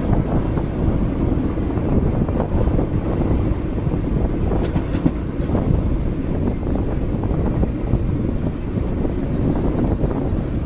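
Passenger train coach running along the track: a steady, loud rumble of wheels on rails with occasional light knocks, heard from on board.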